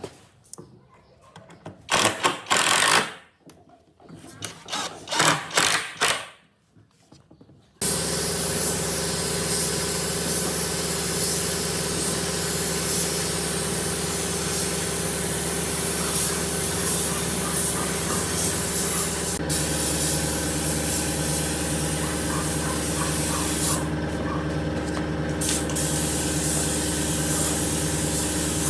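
A few short bursts of noise, then, about eight seconds in, a power tool starts and runs steadily, a constant hum under a hiss.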